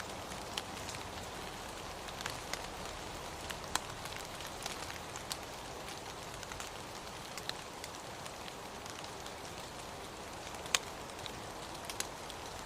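Steady rainfall with scattered sharp drip ticks of individual drops hitting a surface.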